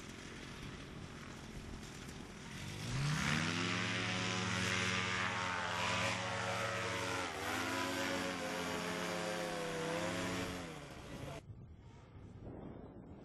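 Paramotor engine and propeller revving up sharply about three seconds in, running at high power for several seconds with a brief dip in pitch, then winding down before the sound cuts off abruptly.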